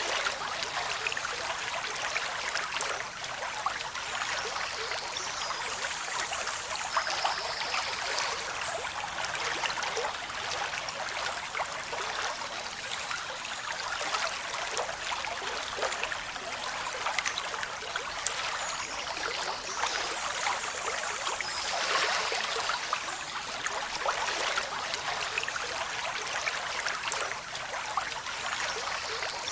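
Waterfall water splashing and rushing steadily, an even spattering hiss with little deep rumble.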